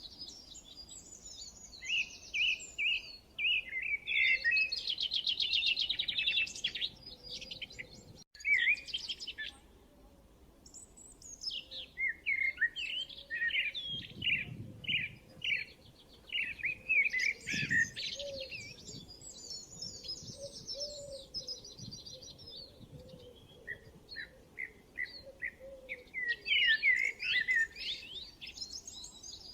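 Songbirds chirping and singing: a dense mix of quick high chirps and fast trills from several birds, in phrases of a few seconds with short gaps, and a brief sudden break about eight seconds in.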